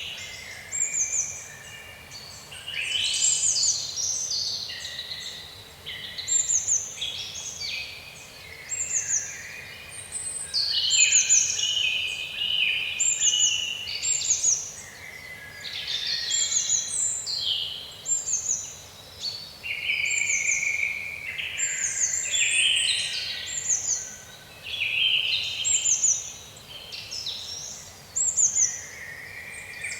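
Several birds singing in woodland: one repeats a short, high, down-slurred note about every second and a half while others sing overlapping phrases.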